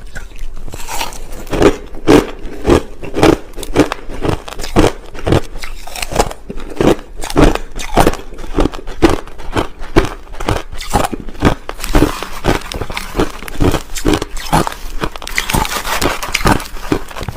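Crushed ice being bitten and chewed close to the microphone: a steady run of sharp crunches, about two to three a second.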